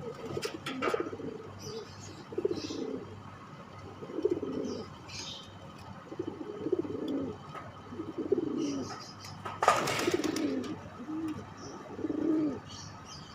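Male domestic pigeon cooing over and over in low, rolling phrases, the courtship coo of a cock driving a hen. A brief loud rustle about ten seconds in.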